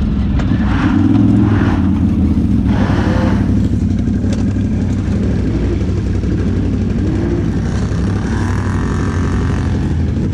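ATV engine running steadily while riding, with short bursts of rushing noise over it about a second in, around three seconds in, and again near the end.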